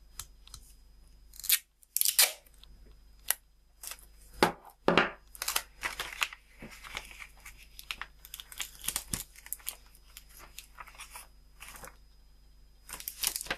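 Clear packing tape being pulled off the roll and torn, in a series of short rips, with paper crinkling as the tape is pressed onto the nose of a paper airplane.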